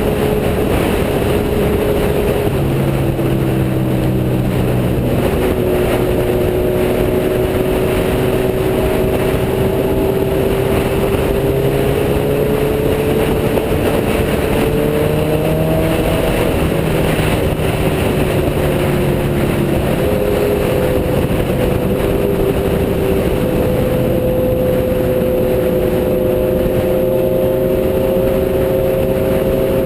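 Motorcycle engine running at road speed under heavy wind rush on the microphone. The engine note climbs slowly, then shifts in pitch several times.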